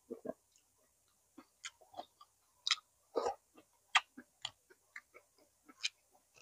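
Mouth sounds of someone eating close to the microphone: irregular short wet smacks and clicks of chewing.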